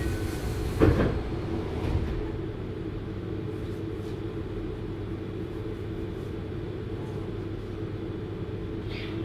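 JR Hokkaido 733 series electric train running, a steady rumble of wheels on rail heard inside the car, with a sharp knock about a second in and a weaker one about a second later.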